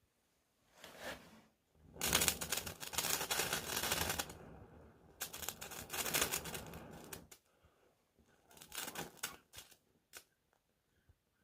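Ferro rod scraped with its metal striker in rasping strokes: two long scraping runs of about two seconds each, with shorter scrapes before and after.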